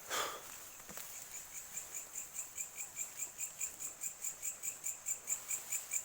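An insect chirping in a steady fast rhythm, about four to five chirps a second, starting about a second in and growing louder, after a brief noise at the very start.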